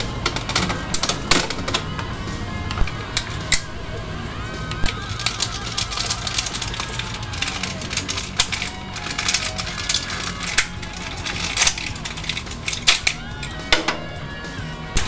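Irregular sharp clicks and snaps of plastic toy robot parts being handled and fitted together, over background music.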